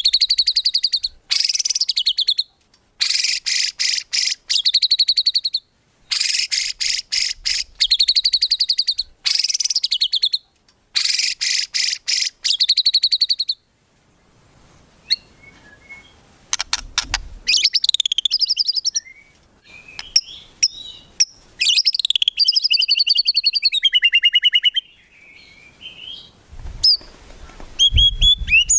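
White-rumped shama singing: first a run of loud, very fast trilled bursts, each a second or two long with short breaks between, then, about halfway through, a varied string of whistled phrases that slide up and down.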